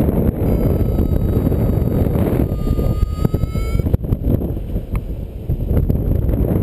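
Strong wind buffeting the microphone in flight under a paraglider: a loud, gusty rumble.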